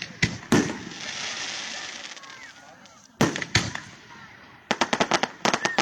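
Fireworks exploding overhead: two loud bangs just after the start, followed by a crackling hiss, two more bangs a little past the middle, then a rapid string of about ten sharp cracks near the end.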